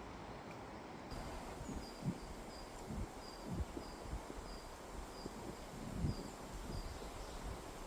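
Strong wind rushing through forest trees, with irregular low gusts buffeting the microphone. From about a second in, a short high chirp repeats steadily, about twice a second.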